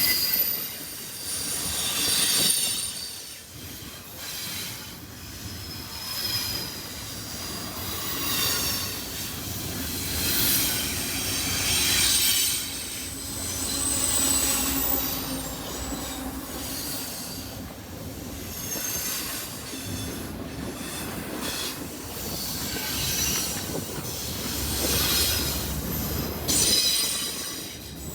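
Freight train cars rolling past with high-pitched wheel squeal from the steel wheels on the rail, swelling and fading every couple of seconds as cars go by.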